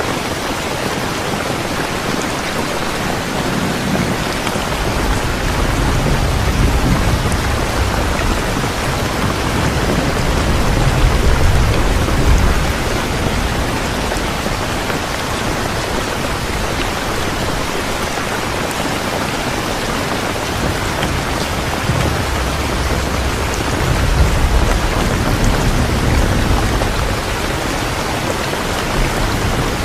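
Steady rain falling, an even hiss of drops, with low thunder rolling twice: a long rumble from about four to thirteen seconds in and a shorter one near the end.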